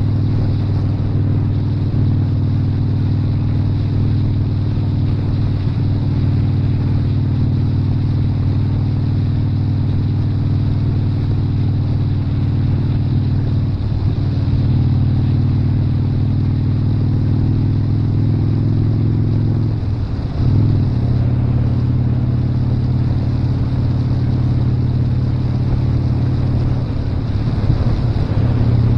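Motorcycle engine running steadily while riding. There are brief breaks where the engine pitch steps to a new level: about halfway through, again a few seconds later, and near the end.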